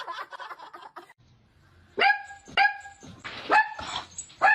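A dog barking four times, short pitched barks spaced about half a second to a second apart, starting about two seconds in.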